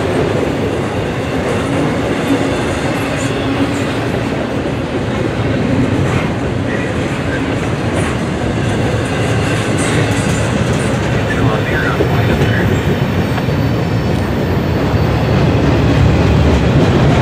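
Double-stack intermodal freight train's container well cars rolling past at track speed: a steady, loud noise of steel wheels running on the rails, a little louder near the end.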